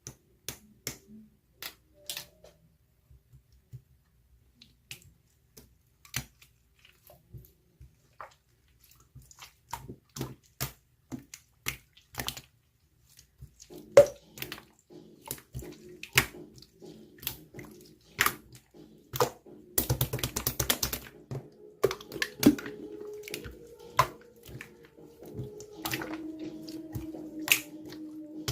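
Slime being handled and folded, giving irregular sharp clicks and small pops, with a quick run of crackles about two-thirds of the way in. From about halfway a faint steady low hum sits underneath.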